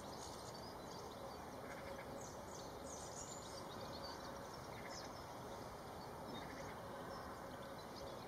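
Steady outdoor background noise with faint, short high-pitched calls of small birds, a cluster of chirps about two to three seconds in and another about five seconds in.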